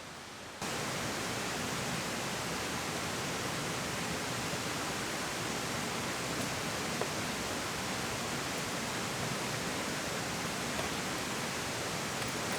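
Steady, even rush of a waterfall pouring down cascades over rocks, jumping louder about half a second in.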